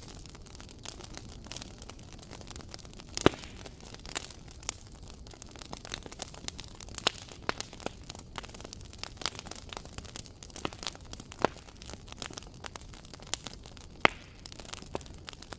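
Wood fire crackling: a steady hiss with irregular sharp pops and snaps, the loudest about three seconds in and again near the end.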